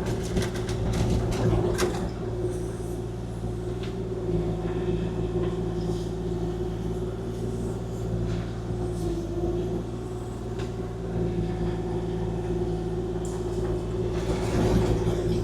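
Kubota KX040-4 mini excavator's diesel engine running steadily, with a steady hydraulic whine over it. Clusters of knocks and clatter come in the first two seconds and again near the end.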